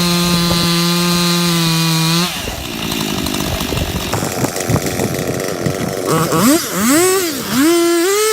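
Two-stroke chainsaw running steadily at full throttle, cutting wood; its note stops about two seconds in, giving way to a few seconds of crackling and knocking. Near the end the saw is revved up and down several times, then held at a high note.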